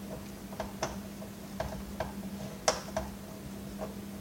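Scattered sharp clicks and light knocks of a hand screwdriver working screws out of a Dirt Devil upright vacuum's plastic housing, the sharpest about two-thirds of the way through, over a steady low hum.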